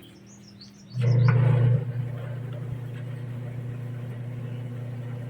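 Top-load washing machine motor humming as it runs. It kicks in louder about a second in, then settles into a steady hum, showing the repaired machine working again.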